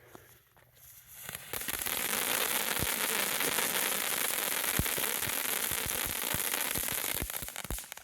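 Magnus 'Disco Ball' firework fountain spraying sparks: a steady, loud hiss with scattered crackling pops. It starts up about a second and a half in and dies down near the end.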